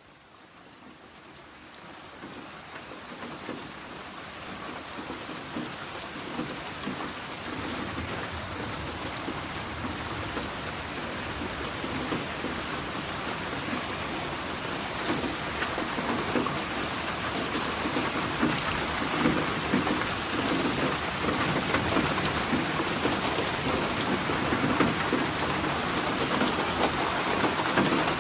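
Rain falling steadily, fading in from quiet and growing louder over the first several seconds, with a low rumbling underneath.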